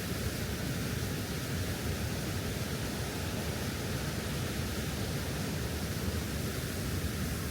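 Steady rushing of water from High Force, a large waterfall on the River Tees.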